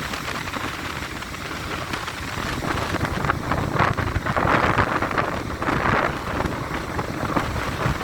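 Stormy sea surf breaking and washing ashore, with strong wind buffeting the microphone; the waves surge loudest about four to six seconds in.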